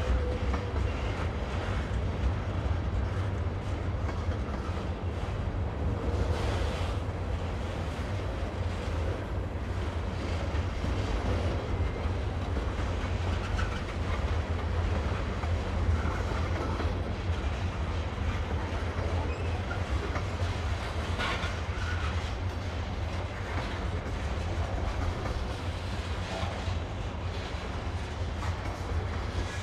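Train cars rolling along the rails, a steady low rumble of wheels on track.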